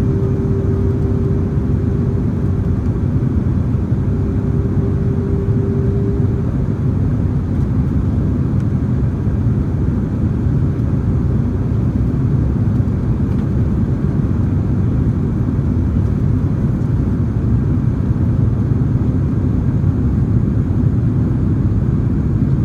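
Steady cabin noise inside a Boeing 767-300ER in flight: the low rumble of airflow and the engines as heard from a rear window seat. For about the first six seconds a steady hum sounds over it, with a short break midway.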